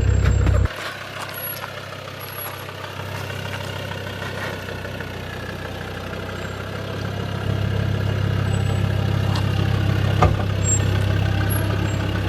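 Land Rover Discovery engine running at low speed on an off-road track, its low hum dropping suddenly about a second in and building back up later. A single short knock near the end.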